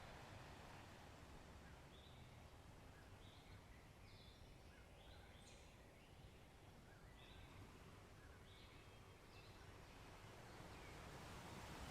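Faint bird calls, short chirps repeated every second or so, over a low steady wash of background noise.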